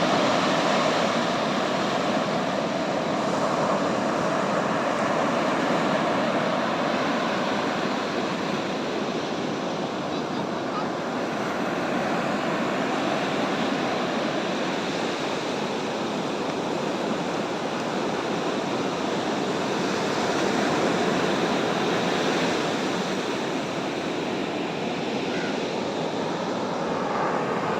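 Ocean surf washing on the shore: a steady rushing noise that swells and eases gently every few seconds.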